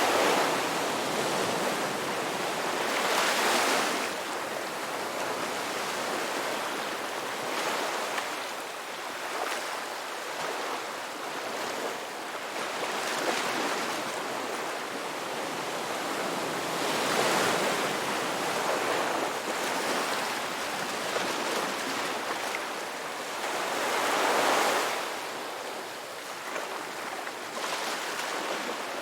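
Ocean waves breaking and washing on a shore, a steady rush of surf that swells louder with each wave every few seconds.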